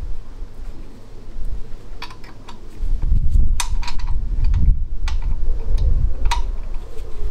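Sharp metallic clicks and taps of a spanner working two locked nuts to unscrew a stud from the engine case, over a low handling rumble that is strongest in the middle.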